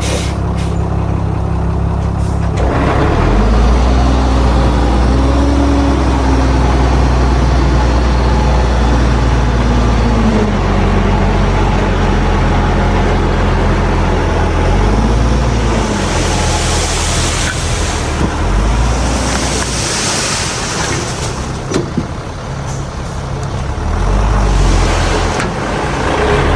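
Heavy diesel earthmoving machinery running under load, the engine note rising and falling as it revs up and settles several times. Two hissing releases of air come near the middle, like a truck's air brakes.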